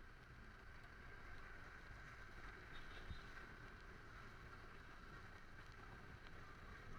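Faint, steady riding noise from a Honda Click 125i scooter on the move: low engine and road rumble with wind on the microphone.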